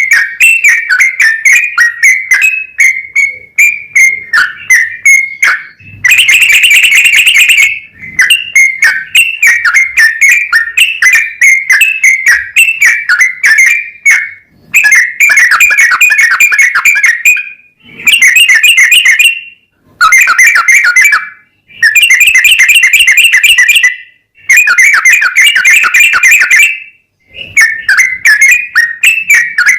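Yellow-vented bulbul (trucukan) singing a long, rapid run of bright, chattering whistled notes in several extended bursts with short breaks between them, the fast continuous 'ropel' song used to provoke other birds into singing.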